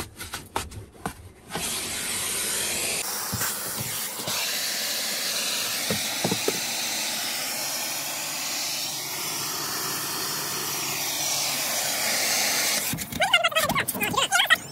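High-pressure spray wand at a self-service car wash, spraying water onto a car as a steady hiss. It starts about a second and a half in and gives way near the end to a sound with wavering pitch.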